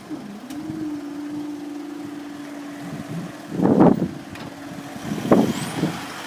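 Road vehicle engines running: a steady hum, with a louder surge about three and a half seconds in and another shorter one near the end.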